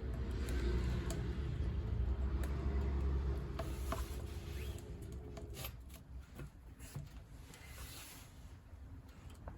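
Wood fire burning in a wood stove: a low rumble for the first three seconds or so, then scattered crackles and snaps.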